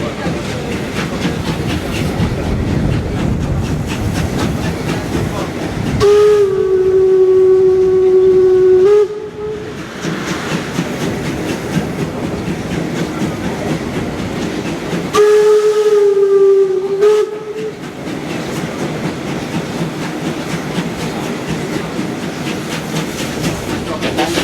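Steam locomotive SJ 1916 running with its train, the wheels and running gear rattling steadily. Its steam whistle sounds two long blasts: the first lasts about three seconds, about six seconds in, and the second is a little shorter, near the middle. Each blast sags slightly in pitch just before it stops.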